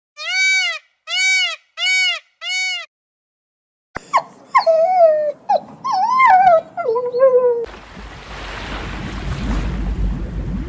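Four short, evenly spaced arched whining calls, then after a second's pause a dog whimpering and yipping in quick rising-and-falling whines. Near the end comes a steady rushing noise.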